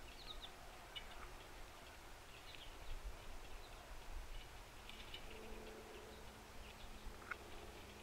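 Faint, scattered short bird chips and call notes over a low outdoor rumble, with a faint steady low hum coming in about five seconds in.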